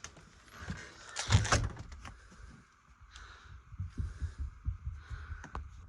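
Knocks and thumps of movement and handling, the loudest about a second and a half in, then a run of soft low thumps near the end.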